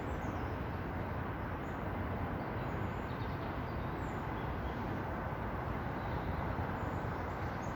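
Steady outdoor rumble of background noise, with faint high bird chirps now and then.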